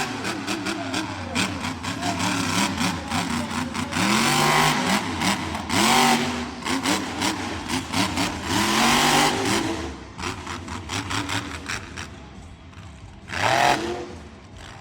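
Monster truck engine revving hard in repeated surges, its pitch climbing and dropping with each burst of throttle. It eases off for a moment, then gives one last sharp rev near the end.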